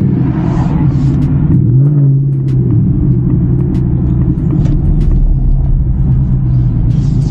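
2024 Ford Mustang GT's 5.0-litre V8 running steadily at low road speed, heard from inside the cabin. Its note steps up slightly about two seconds in, then holds.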